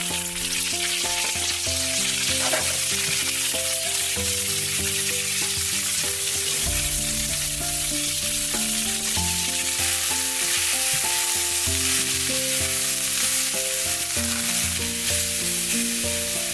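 Chopped bok choy and garlic sizzling in hot oil in a nonstick wok while being stirred with a wooden spatula. Background music with a stepping melody and bass line plays under it.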